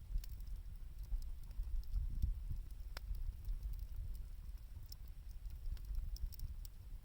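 Wood fire burning with scattered small crackles and pops, one sharper pop about three seconds in, over a steady low rumble.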